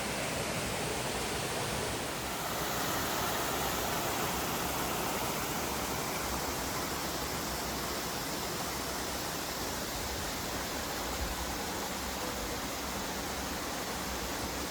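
Rushing water, a steady even hiss.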